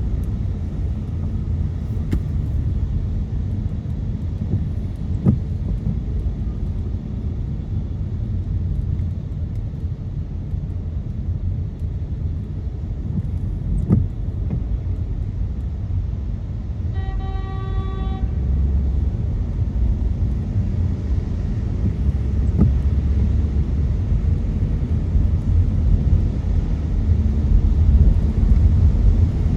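Road noise inside a car driving on wet city streets: a steady low rumble of tyres and engine, with a few sharp clicks. About two-thirds of the way through, a single steady beep sounds for about a second.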